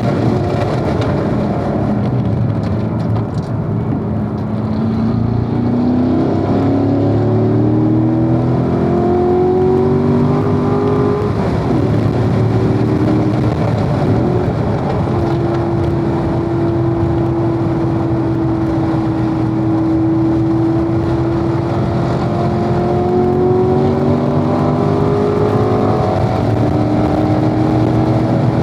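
Corvette V8 engine heard from inside the car at speed on track. Its pitch climbs under acceleration, breaks off about eleven seconds in, holds steady for a long stretch and climbs again near the end, over steady road and wind noise.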